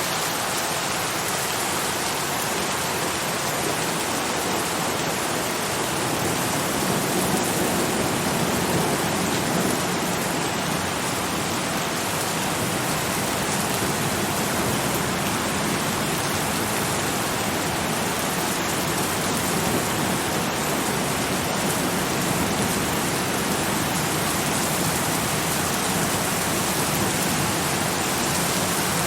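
Steady, even rain falling, with no distinct drops or thunder standing out.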